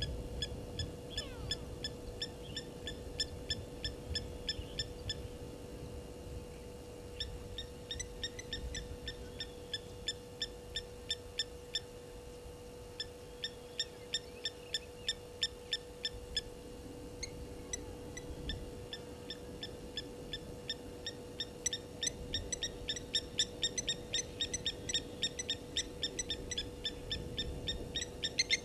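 A bird calling in a rapid series of short, high, downward-sliding chirps, about five a second. The chirps come in bouts of a few seconds with short pauses between, and are busiest near the end. A steady faint hum runs underneath.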